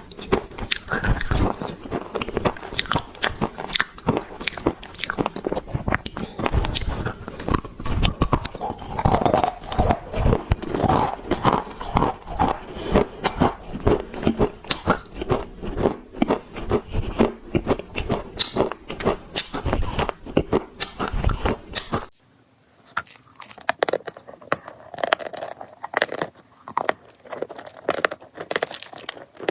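Close-miked biting and chewing of dry clay: a dense run of sharp crunches and crackles. About three quarters of the way through it cuts off abruptly and goes on quieter, with sparser crunches.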